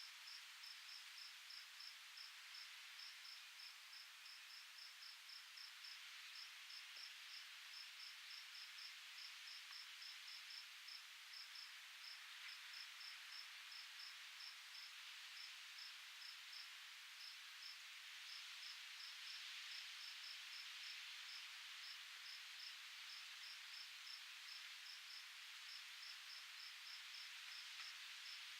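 A cricket chirping steadily, a few short high chirps a second, over a faint soft wind hiss that swells slightly about two-thirds of the way through.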